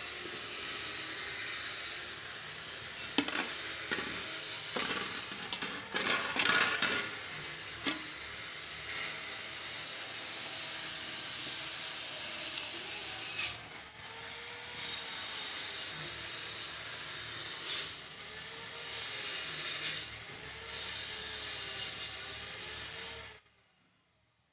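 Steady background hiss with scattered sharp clicks and knocks, clustered a few seconds in, then cutting off abruptly near the end.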